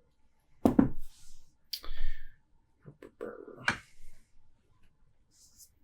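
A few sharp knocks and clicks, the loudest about a second in, with a short hiss and a brief rushing sound: a beer crowler can and glass being handled.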